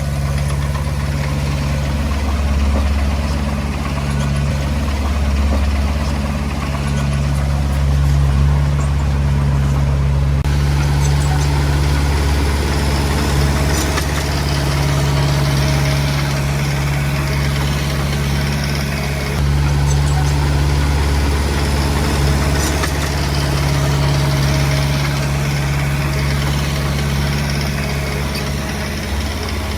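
Komatsu D20P bulldozer's diesel engine running steadily, with abrupt changes in its tone about ten seconds in and again near twenty seconds.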